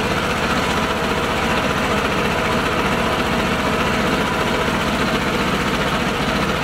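Mini tractor engine running steadily at an even speed, a low drone with a fast regular pulse.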